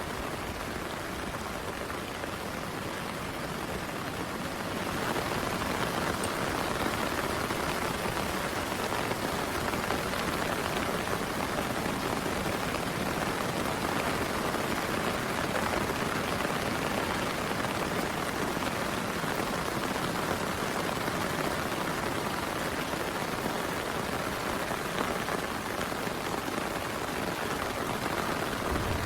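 Heavy rain falling steadily, a dense even hiss that grows heavier about five seconds in and then holds.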